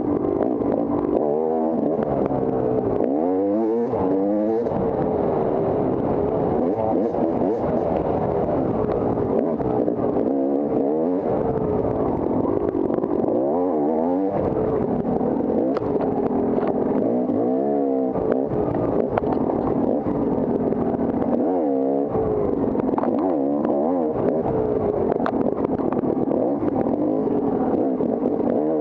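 Off-road dirt bike engine running hard, its pitch rising and falling again and again as it revs up and drops off, with scattered clattering knocks.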